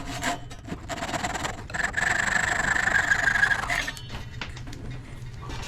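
A tool working the end of a wooden dowel flat: short scraping strokes, then a steadier scraping stretch of about two seconds in the middle.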